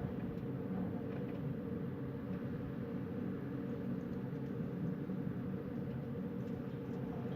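Steady wind noise at night, a low, even rush with no gusts standing out.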